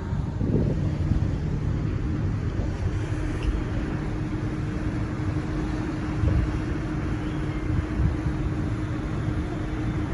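Steady low rumble of a cruise ship under way at sea, with a steady machinery hum that comes in about a second in.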